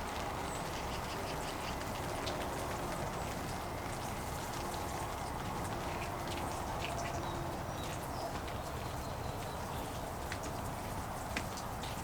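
Steady rain falling on and around the greenhouse, a constant hiss with scattered sharp ticks of drops striking the cover.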